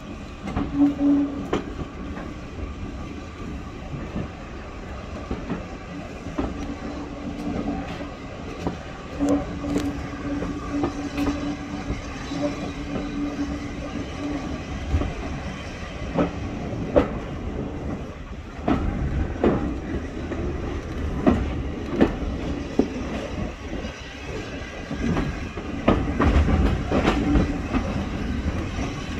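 Passenger carriage of a steam-hauled train running on the rails: a steady rumble with irregular clacks and knocks from the wheels on the track, and a low hum that comes and goes in the first half. The rumble grows heavier in the last third.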